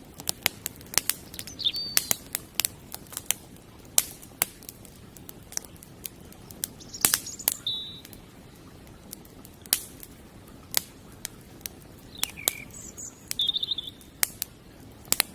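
Campfire crackling and popping with irregular sharp snaps, while a bird gives a few short chirps now and then.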